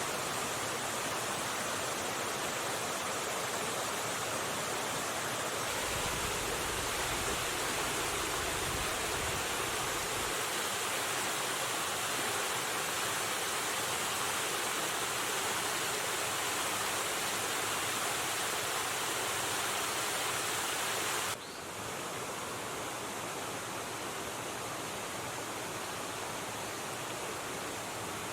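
Steady rushing of river water. About 21 seconds in it cuts abruptly to a slightly quieter, duller rush.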